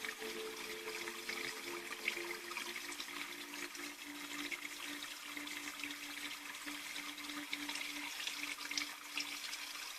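Steady trickling, running water, with a few faint held tones stepping lower in the first half.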